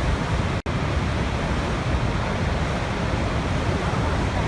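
Niagara Falls: the steady roar of the falling water, heaviest in the low range. The sound cuts out for an instant about half a second in, then carries on unchanged.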